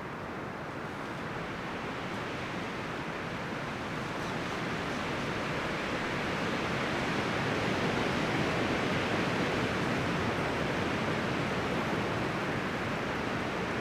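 Wind gusting through forest trees, rustling leaves and branches in a steady wash that swells gradually toward the middle and eases slightly near the end.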